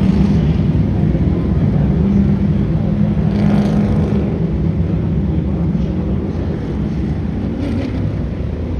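Motor vehicle engines running with a steady low drone, with a brief brighter, noisier swell about three and a half seconds in.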